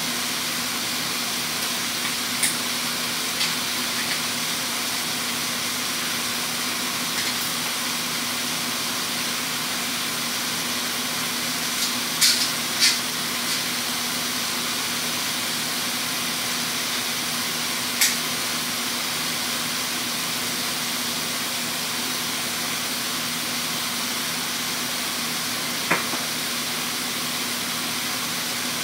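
Diced vegetables frying in a nonstick pan: a steady sizzle with a few sharp pops and crackles, over a low steady hum.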